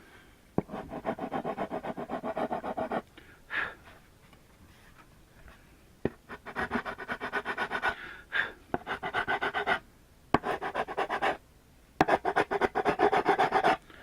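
A hand tool scraping wood in quick back-and-forth strokes, about six a second, in several short runs with pauses between. It is cleaning off the burrs raised around freshly drilled holes.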